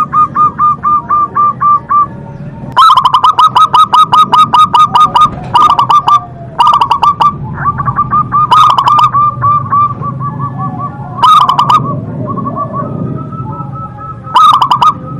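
Zebra dove (perkutut) cooing in loud bursts of rapid, clipped notes, about eight a second, with short pauses between phrases.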